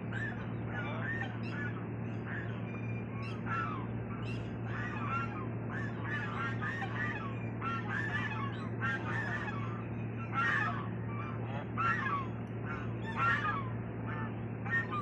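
A flock of domestic waterfowl calling over one another in short, overlapping calls, a few louder ones standing out near the end, over a steady low hum.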